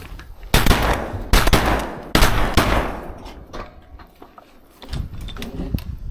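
Three shotgun shots about a second apart, each with a long fading echo, fired at a duck coming in to the calls.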